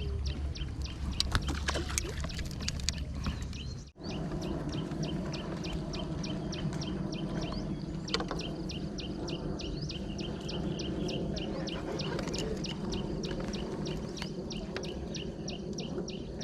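Outdoor ambience at a pond: after a brief dropout about four seconds in, a small animal gives a steady series of short high chirps, about four a second, over a constant low rumble.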